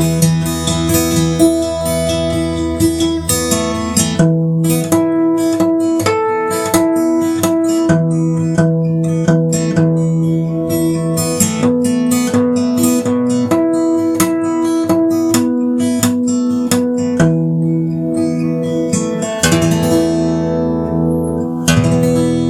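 Acoustic guitar playing an instrumental melody in quick plucked notes over held bass notes. Near the end there are two strummed chords, and the last is left to ring.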